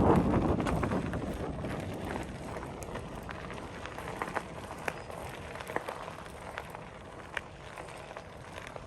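Footsteps of someone walking on pavement, sharp steps under a steady outdoor hum. A loud rush of noise fades away over the first second or so.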